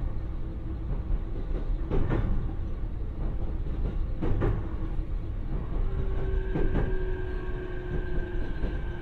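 Running noise inside a JR East E531-series electric train's motor car: a steady rumble of wheels on rail, with a knock from the rail joints about every two seconds. About six seconds in, a steady whine from the traction motors sets in.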